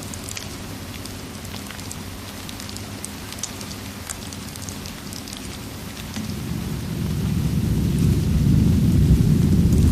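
Steady rain hiss with scattered small crackles and pops. About six seconds in, a low rumble of thunder begins and swells, growing louder to the end.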